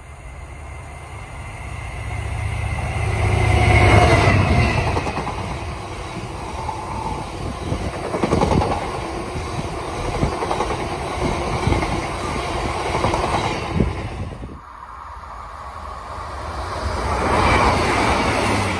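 A freight train passes close at speed. A heavy rumble and low hum peak about four seconds in, then the bogie hopper wagons run by with a string of wheel clicks over the rail joints. After an abrupt cut near the end, a diesel multiple unit passes, its noise swelling to a peak just before the end.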